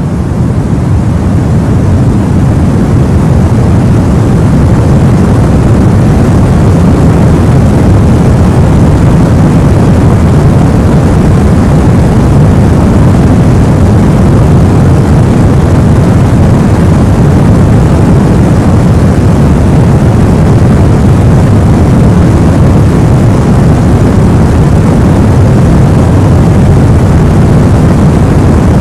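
Steady sleep-aid white noise, a loud even rushing hiss weighted toward the deep end, fading in over the first few seconds and then holding unchanged.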